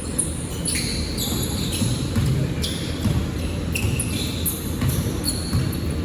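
Basketball game in a gym: sneakers squeaking on the court floor many times, short high squeaks, some sliding in pitch, over a steady murmur of voices.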